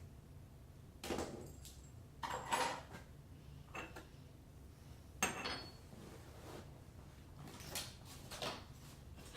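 Faucet parts and their packaging being unpacked and handled by hand: a string of about six short rustles, knocks and clatters, the loudest about two and a half and five seconds in, over a low steady hum.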